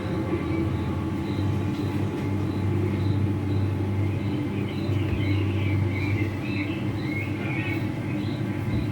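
Steady low mechanical rumble and hum, with a faint high tick repeating about three times a second and a few short chirps in the middle.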